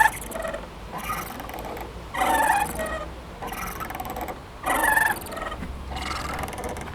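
Playground swing squeaking rhythmically as it swings back and forth. A louder creak comes about every two and a half seconds, and a fainter one falls halfway between each pair.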